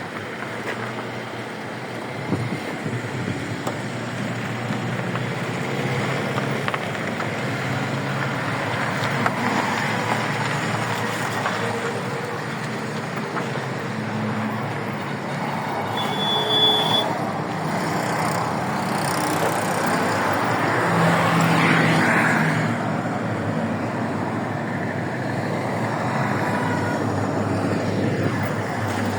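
Motor vehicle engines and road traffic noise running steadily, with a brief high-pitched tone about two-thirds of the way through.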